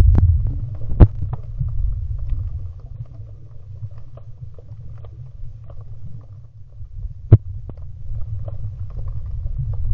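Muffled low rumble of water moving against a camera held underwater while swimming, louder at the start, with faint ticking and two sharp clicks, about a second in and again about seven seconds in.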